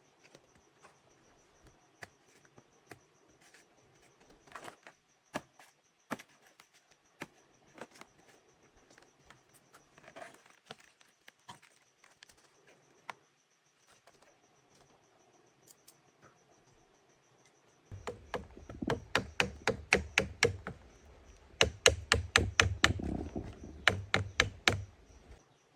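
Scattered light knocks and taps, then about two-thirds through a rapid run of hard strikes, several a second, in two spells with a brief pause. A faint steady high insect trill runs underneath.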